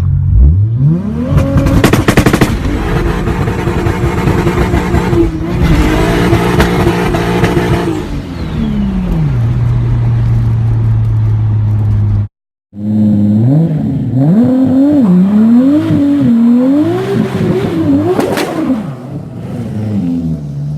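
Turbocharged Toyota Supra engine revved hard: it climbs over about two seconds, holds high, then drops back to a steady idle. After a sudden cut it is blipped up and down several times in quick succession.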